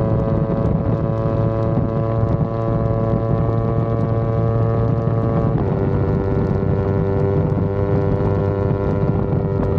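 Yamaha R25 parallel-twin engine running under way, with wind rushing on the microphone. Its pitch holds, sagging slightly, then drops suddenly about six seconds in as it shifts up a gear.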